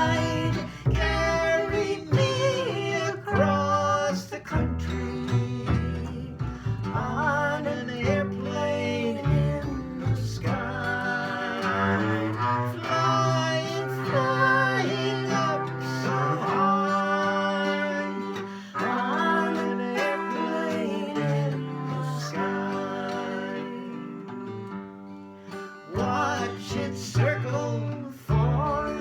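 Instrumental break of a bluegrass-style song played on guitar and double bass, the guitar picking a melody over the bass.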